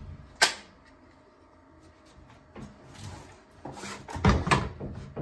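A carpenter's square and aluminium rule handled on a plywood floor: a sharp tap about half a second in, some shuffling, then two loud knocks in quick succession near the end.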